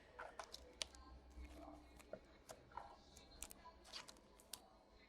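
Faint scattered clicks and light rustles of trading cards being handled and slid one behind another.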